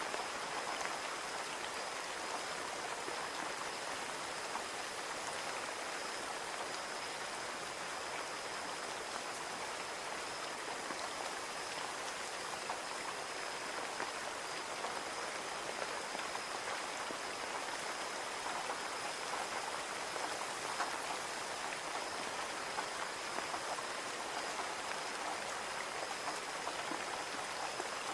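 Steady rain falling on a window: an even hiss of rain with scattered individual drop taps, unchanging throughout.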